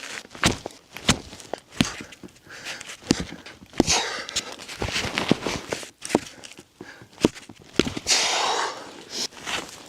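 Footsteps and irregular sharp wooden knocks from logs and branches being handled, with a brief rasping scrape about eight seconds in.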